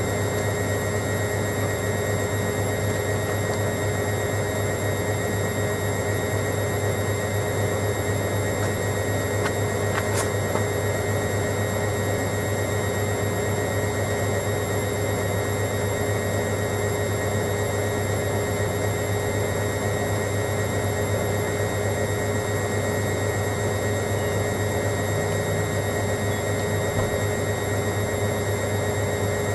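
Hoover Logic washing machine running steadily: a constant motor hum with a steady whine over it, unchanging throughout.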